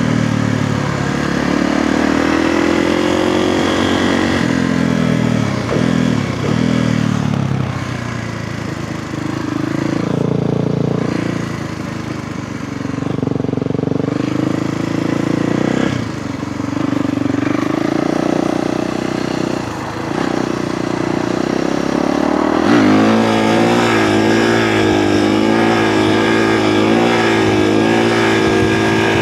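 Kawasaki KX450F dirt bike's single-cylinder four-stroke engine on a ride, its revs rising and falling again and again as the throttle is worked. Near the end the engine holds high revs with a slightly wavering pitch.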